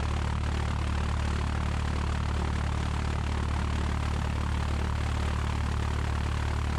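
1969 Cessna 172's four-cylinder Lycoming engine and propeller running steadily at idle.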